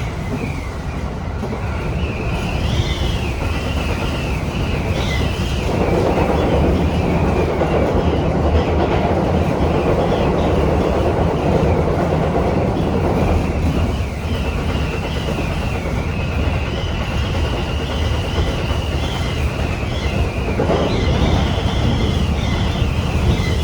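Inside a Tobu Tojo Line commuter train running in typhoon winds: a steady rumble of the carriage on the rails under a high, wavering wind whistle. A louder rushing noise swells from about six to thirteen seconds in, and briefly again near the end.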